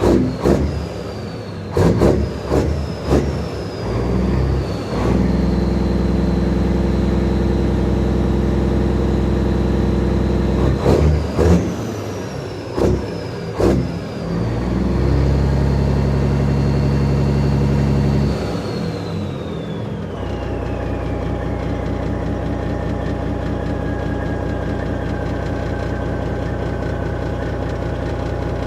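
Straight-piped Detroit Diesel Series 60 inline-six in a Kenworth truck, exhausting through 8-inch stacks. It is revved in short sharp blips and twice held at raised revs, with a high turbo whistle. Near the two-thirds mark it drops back to idle and the turbo whine slowly falls away.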